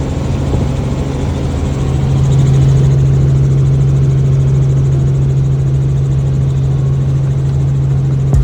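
Helicopter running: a loud, steady drone that grows louder about two seconds in and then holds.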